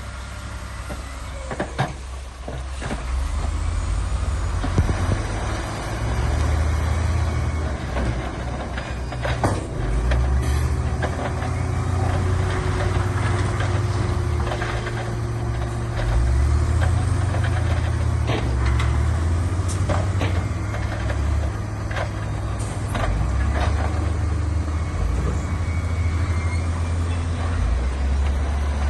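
Heavy diesel construction machinery running, a deep engine rumble that swells and eases, with scattered sharp knocks. It grows louder a few seconds in.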